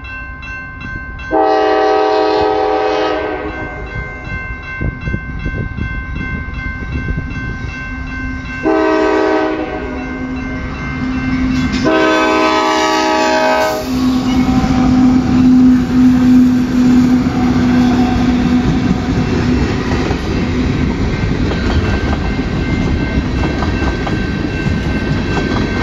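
CSX freight locomotive sounding its horn in three long blasts over a steady ringing crossing bell as it approaches a grade crossing. From about fourteen seconds in, the train passes close by with a continuous rumble and clickety-clack of freight cars on the rails.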